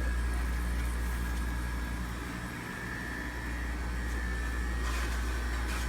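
A steady, low rumbling hum with a faint high steady tone above it, from continuously running machinery.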